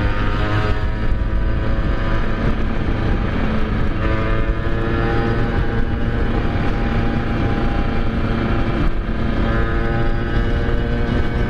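Two-stroke motorcycle engine running while riding at steady revs, its pitch shifting a little about four seconds in and again near nine seconds, over low wind rumble.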